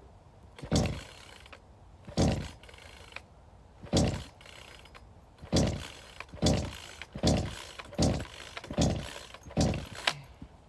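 Firewood being cut by hand: about ten heavy strokes on wood. They start about a second and a half apart and come faster, under a second apart, in the second half.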